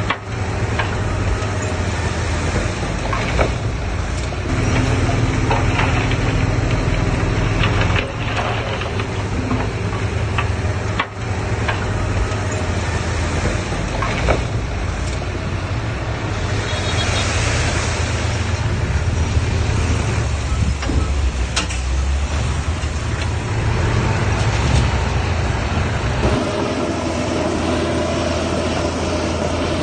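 Heavy diesel engines of dump trucks and a bulldozer running steadily, with scattered metallic clanks and a burst of hissing air about halfway through. The engine note shifts abruptly a few times.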